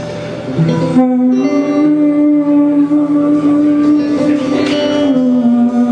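Live band music in an instrumental passage: about a second in, a long note is held for about four seconds, then steps down to a lower pitch near the end.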